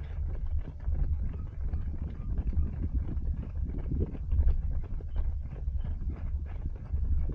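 Wind buffeting a small body-worn action camera's microphone as a runner runs, with a low rumble and a rapid run of short thuds from footfalls and the camera's mount jolting.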